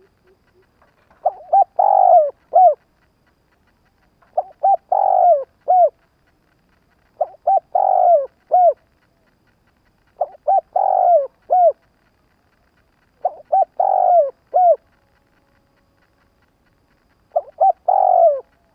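Spotted dove cooing its repeated advertising call, six phrases of a few short and one longer coo notes, coming roughly every three seconds. This is the calling coo that decoy doves give to provoke wild males.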